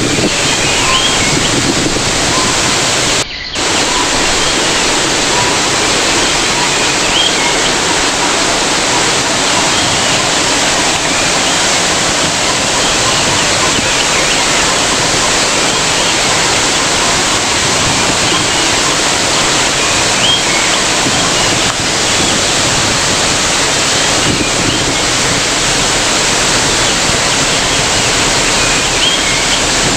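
Waterfall: water falling and rushing in a steady, loud roar, with a brief dropout about three seconds in.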